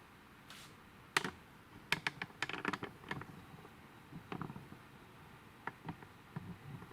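Irregular light clicks and taps, a busy run of them from about one to three seconds in, then a few scattered single clicks.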